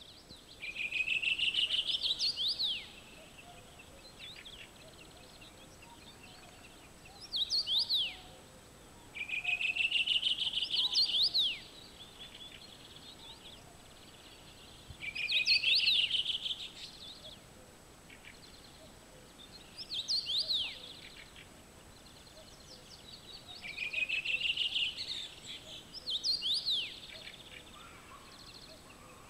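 A songbird singing: about seven short song phrases, each a quick run of rising notes ending in a few sharp down-swept notes, repeated every few seconds. A faint steady background hiss lies beneath.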